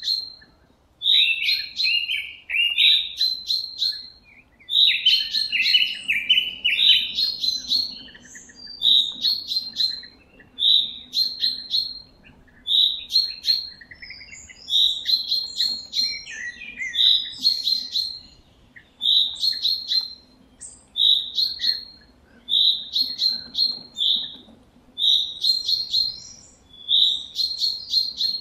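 Songbird singing loud, short chirping phrases, repeated every second or so.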